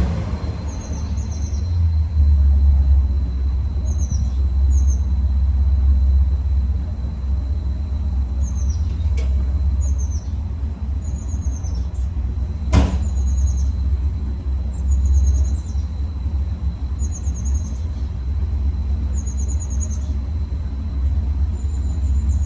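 Truck engine idling after a cold start, a steady low rumble that swells slightly a few times. Short high chirps recur over it, and a sharp click sounds about 13 seconds in.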